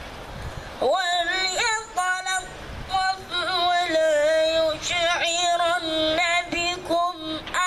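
A boy's high voice chanting Quran recitation, melodic held notes with wavering ornaments, sung in phrases with short breaths between them, starting about a second in.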